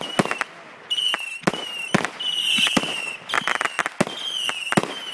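Consumer firework cake firing shot after shot, about two a second: sharp cracks, many with a whistling tail that dips slightly in pitch.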